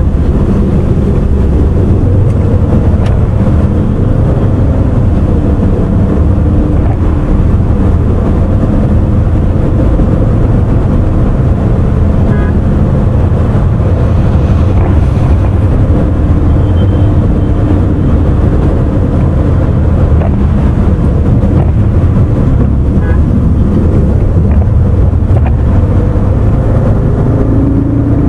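Car driving at speed: steady engine and road noise, with an engine tone rising near the end as it accelerates.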